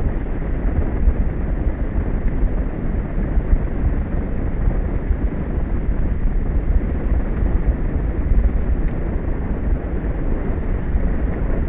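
Steady wind rumbling on an outdoor microphone, a continuous low noise with no breaks or distinct events.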